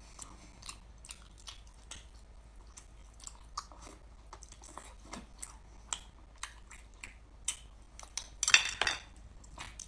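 Close-up mouth sounds of someone eating sea snails: wet chewing and smacking clicks, about two a second, with a louder spell of them near the end.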